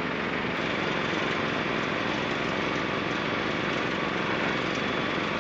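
Tecnam P92 light aircraft's engine and propeller running steadily, heard from inside the cockpit, on final approach with full flap set.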